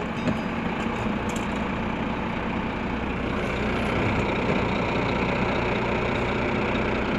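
Scania truck's diesel engine running steadily at low revs while it creeps slowly, growing a little louder about halfway through.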